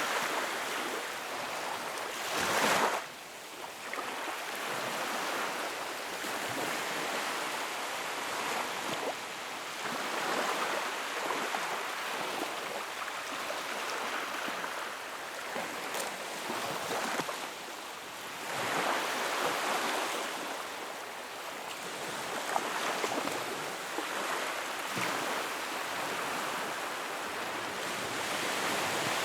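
Wood fire burning in a fireplace: a steady rushing hiss of flames that swells and fades, with a few sharp crackles and pops.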